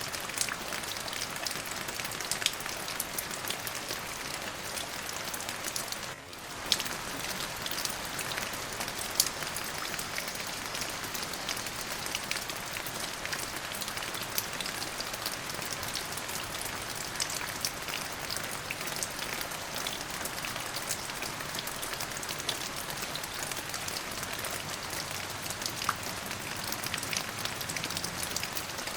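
Steady rain falling, with many individual drops ticking sharply against a constant hiss. The sound briefly drops away about six seconds in.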